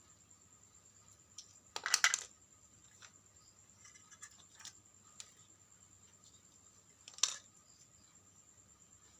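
Scattered clicks and light clatter of small parts or tools being handled during disassembly, with a short burst of clicks about two seconds in and a single sharp click about seven seconds in, over a faint steady high-pitched tone.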